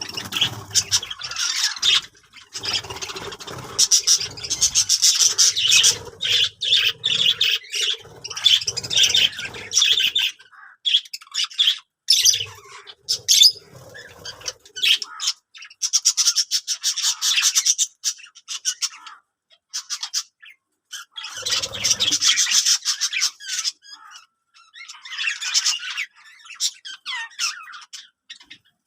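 Budgerigars chattering and squawking in bouts of rapid, clicky chatter, broken by brief pauses.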